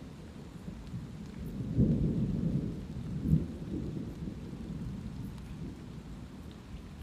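Thunder rumbling over light rain: the rumble swells about two seconds in, with a sharper, louder peak a little later, then slowly dies away while faint raindrop ticks go on.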